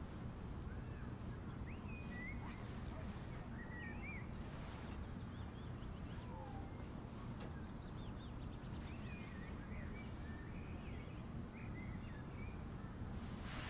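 Small birds chirping and twittering in scattered short calls over a steady low hum. A brief rustle comes about a third of the way in, and a louder one near the end.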